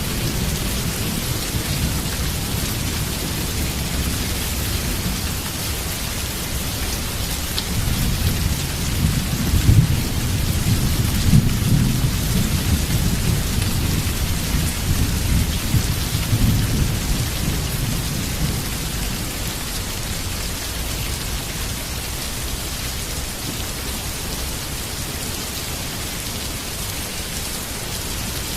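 Heavy rain falling steadily, with thunder rumbling low under it. The rumble swells about a third of the way in, peaks twice, then fades back into the rain.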